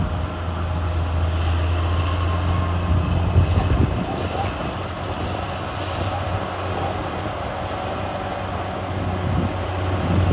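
Caterpillar D6R bulldozer's diesel engine running steadily, with the metallic clatter of its steel tracks as it works.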